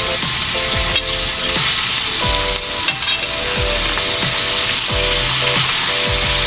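Cut yardlong beans sizzling and frying in a stainless-steel pan as a metal spatula stirs and tosses them, with a few knocks of the spatula against the pan.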